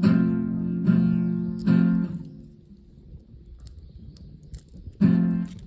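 Acoustic guitar strummed in full chords, three strums in quick succession, a pause of about three seconds, then one more strum near the end.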